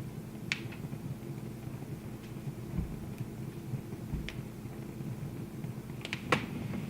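Wood fire in a fireplace crackling: a few sharp pops, with the loudest cluster of them about six seconds in, over a low steady background.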